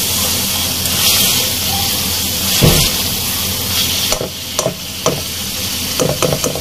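Chicken karahi masala sizzling in a wok over high flame while a spatula stirs it, at the stage of frying until the oil separates. There is one low thump a little under three seconds in; from about four seconds in the sizzle eases and a run of light knocks follows.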